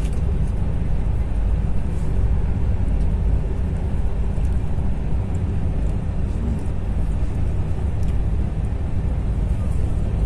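Steady low rumble of a moving train, heard from inside a passenger coach, with a few faint ticks over it.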